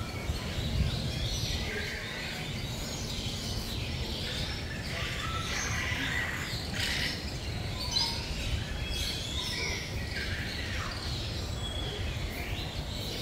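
Several birds calling and chirping at once, many short calls overlapping, some sliding in pitch, over a steady low rumble.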